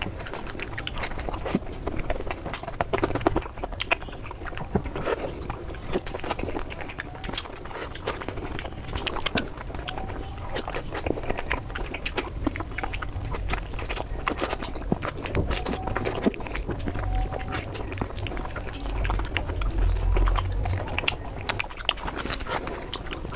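Close-miked chewing and wet mouth smacks of someone eating puri and curry, a dense, irregular run of small clicks and smacks.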